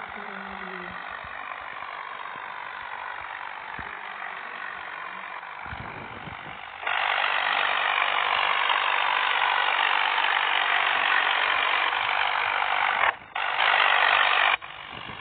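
A machine running steadily, jumping much louder about seven seconds in and breaking off abruptly twice near the end.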